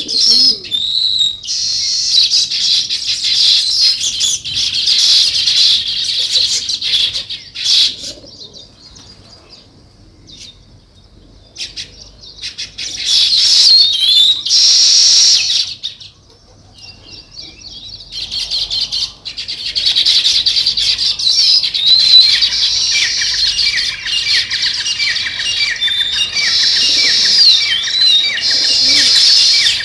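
A flock of small birds chattering with dense, rapid chirps. The chatter falls away about a third of the way in and again around the middle, then comes back strongly.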